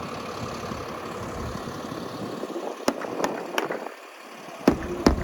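Snow-plow truck engine idling under a steady wash of noise. About three seconds in, five sharp knocks come in two quick groups.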